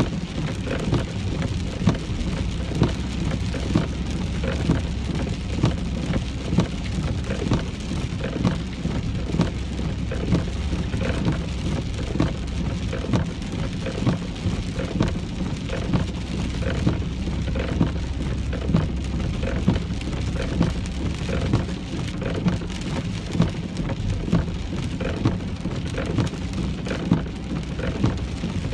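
Rain falling on a moving car, heard from inside the cabin: a steady patter with many sharp drop taps over the low, even hum of the engine and tyres.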